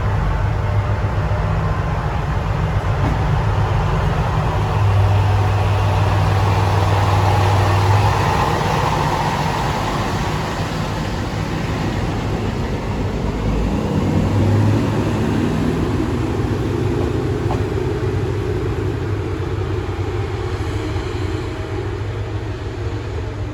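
Diesel railcar engine running with a steady low hum, its pitch and level shifting a little a few times.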